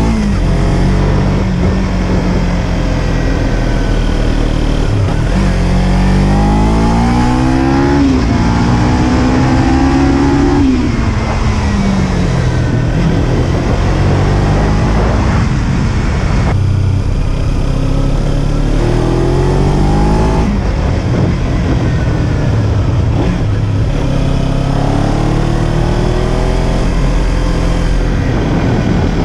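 Kawasaki Z300's parallel-twin engine under way, revs climbing in several long pulls through the gears and dropping off in between.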